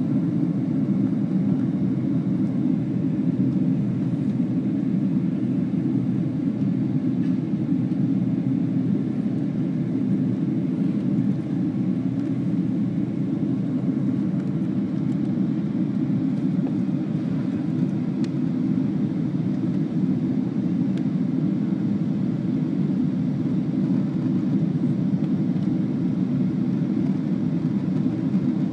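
Steady low cabin noise of a jet airliner in flight, engines and rushing air heard from inside the cabin, even throughout.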